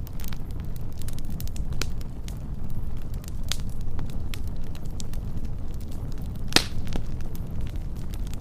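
Wood fire burning with a steady low rumble and scattered crackles, with one louder sharp pop about six and a half seconds in.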